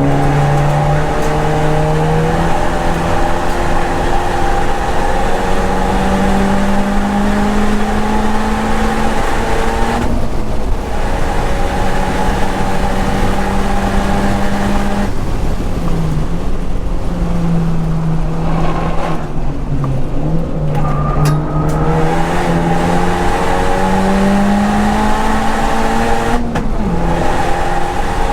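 Modified Honda Civic Type R's turbocharged 2.0-litre four-cylinder at full throttle on track. Its note climbs steadily in pitch, then breaks off and drops three times as the driver lifts and shifts, about ten seconds in, about fifteen seconds in and near the end. Tyre and wind noise run steadily underneath.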